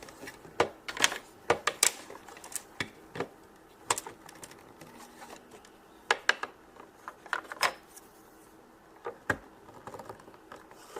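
Plastic MegaBloks pieces being handled and pressed together, giving irregular sharp clicks and clacks.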